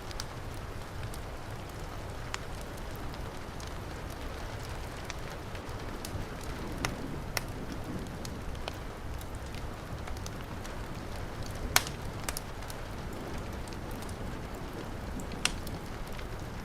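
Heavy rain falling steadily, mixed with a fireplace's wood fire crackling: sharp pops scattered through the rain, the loudest about twelve seconds in.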